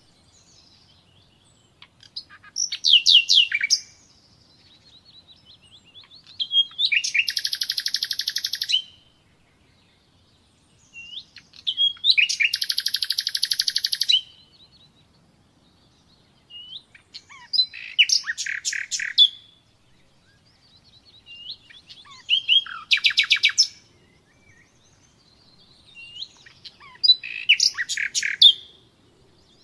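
Nightingale singing: six phrases of rapid repeated notes and trills, each two to three seconds long, separated by pauses of about two seconds.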